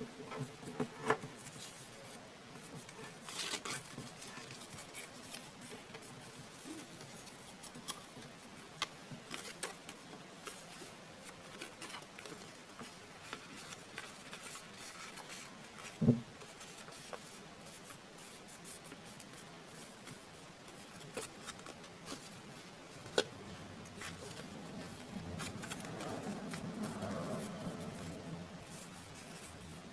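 Square of origami paper being folded and creased by hand: scattered small crinkles and taps, one louder tap about halfway through, and a longer stretch of rustling near the end.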